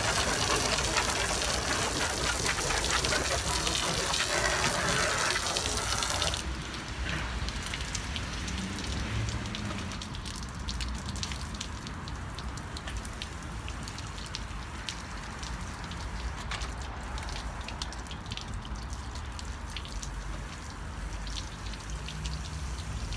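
Garden hose spray nozzle spraying water onto a car, a loud steady hiss that drops to a quieter spray with pattering droplets about six seconds in.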